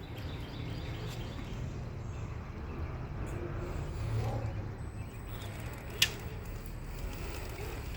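Small electric RC rock crawler's motor and drivetrain running slowly, a low steady drone. A faint high whine joins about five seconds in, and there is one sharp click about six seconds in.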